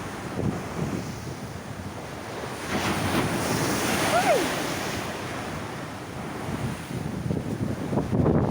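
Heavy surf in strong wind: waves breaking and rushing, with the wind buffeting the microphone. The surf swells about three seconds in and again near the end.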